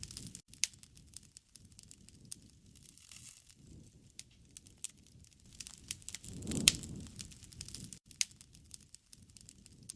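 Wood fire burning, crackling with irregular sharp snaps and pops, swelling to a fuller, louder rush with a strong pop about six and a half seconds in.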